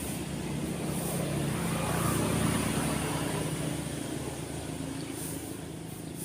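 A road vehicle's engine passing by, swelling to its loudest about two seconds in and then fading, over the continuous wash of waves on the shore.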